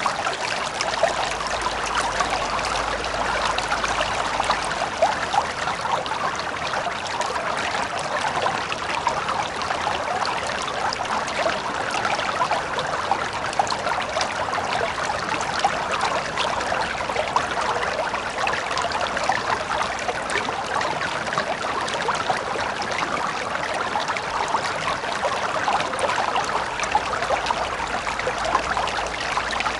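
River water flowing steadily over stones, a continuous babble full of small splashes and trickles.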